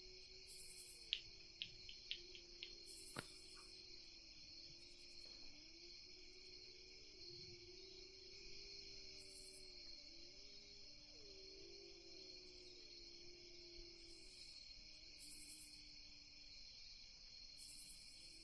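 Faint night ambience of crickets: a steady insect trill with short higher chirps repeating every second or two. A few soft clicks come in the first few seconds, and a low wavering tone runs underneath.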